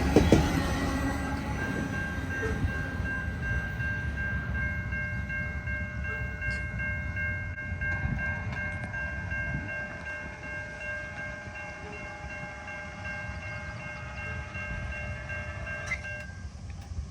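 A train rumbling away as it recedes, the rail noise fading steadily. Several steady high tones ring together over it and stop about a second before the end.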